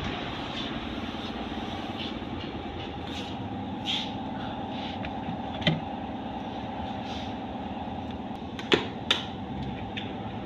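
A motor vehicle engine running steadily, with sharp clicks a little over halfway through and twice close together near the end.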